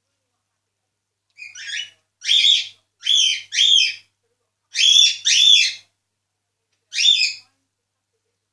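Cockatiel calling: seven short, chirpy calls, some in quick pairs, starting about one and a half seconds in and ending about a second before the close.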